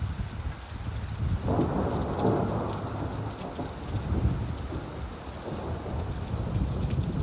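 Steady rain with a low rumble of thunder that swells about one and a half seconds in and slowly dies away.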